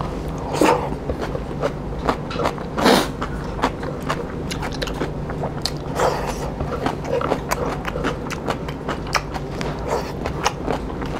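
Close-miked chewing and wet mouth smacks of a man eating pork curry by hand: many small clicks, with a few louder smacks. A faint steady low hum lies underneath.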